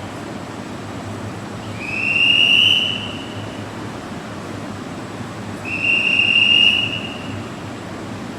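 Two high, steady signal tones, each about a second long and about four seconds apart, over the steady hum of an electric limited-express train standing at the platform as it is about to depart.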